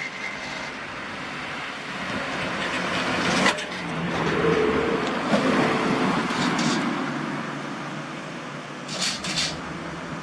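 A large truck's engine running as it drives past, growing louder and then fading, with a sharp click partway through and two short hissing bursts near the end.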